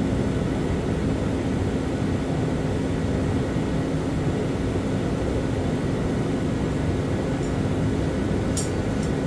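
Steady machine drone with a constant low hum, like a fan or motor running without change, with a few light clicks near the end.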